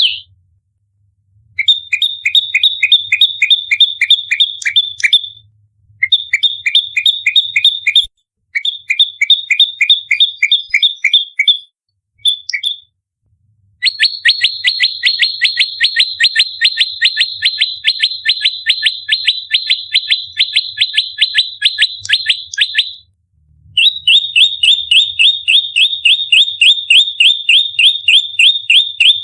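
Prenjak lumut (Indonesian songbird) giving its rapid, repeated 'tarung' fighting call: fast trains of sharp, high chip notes. They come in bouts of a few seconds broken by short pauses, the longest bout lasting about nine seconds.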